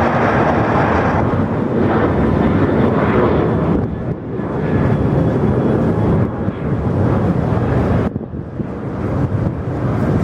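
Loud, steady rushing roar of a jet airliner's engines, mixed with wind buffeting the microphone, dipping briefly twice.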